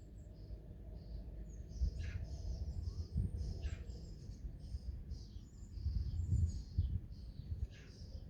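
Small wild birds chirping and twittering, many short high calls in quick succession, over a low rumble that swells about two and again about six seconds in.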